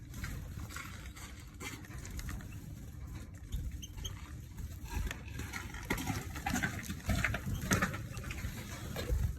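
Small caged finches moving about and feeding: irregular light tapping, pecking and rustling, busier in the second half.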